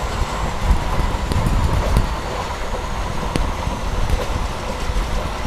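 Passenger train running along the track, heard from on board: a steady low rumble of wheels on rail with scattered sharp clicks and clacks.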